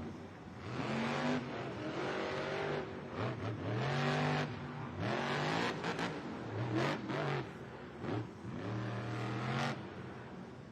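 Monster truck engine revving in a series of throttle bursts, its pitch climbing and dropping about five times.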